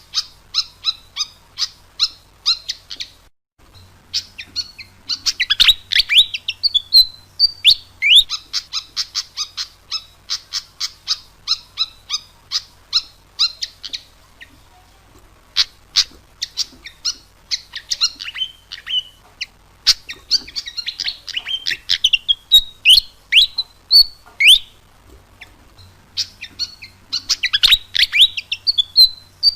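Pied fantail (burung kipasan) singing: a fast run of short chirps, about three or four a second, broken here and there by sweeping whistled notes, with a brief pause a few seconds in.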